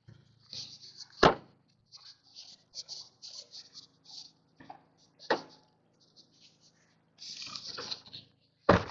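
Rustling and crinkling of garbage bags, with three loud thumps about four seconds apart as trash is thrown into a garbage can.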